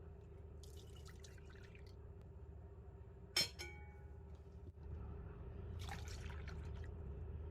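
Cold milk being poured into a bowl, with a single ringing glass clink about three and a half seconds in.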